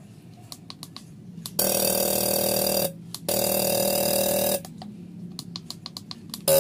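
Gasoline fuel injectors on an injector tester firing in two bursts of about a second each, a steady buzz that starts and stops abruptly, with light clicking between the bursts.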